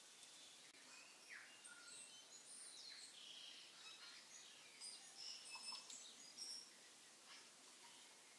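Near silence with faint, scattered bird chirps and short whistles.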